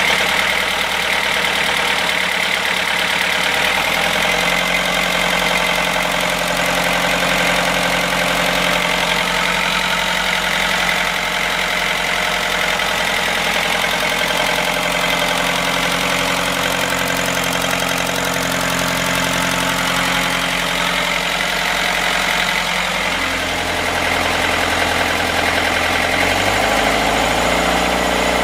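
Perkins 4-108 four-cylinder diesel engine running steadily after a long lay-up, on a newly fitted Lucas injection pump with freshly overhauled and set injectors. Its speed changes about four seconds in and picks up again near the end.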